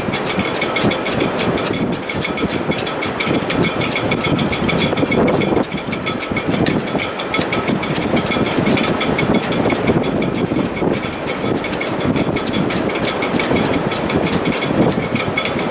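Sailboat shrouds in a strong wind, a steady, dense rush with a few held whistling tones above it and a fast, even flutter.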